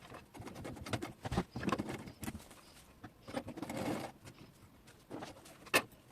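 Irregular clicks and knocks from working at a domestic sewing machine while ribbon is sewn onto fabric, with a couple of short, uneven stretches of clatter and no steady run of stitching.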